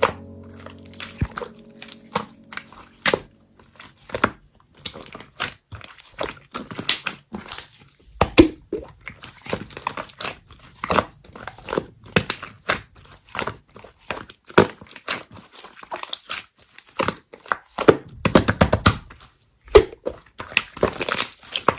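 Slime being pressed and squished by hand: a long run of sharp clicks and crackling pops, coming thicker and louder near the end.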